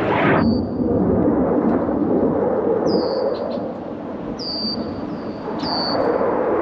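Jet aircraft rumble that dips in the middle and builds again toward the end. Short, high chirps that fall in pitch repeat several times over it.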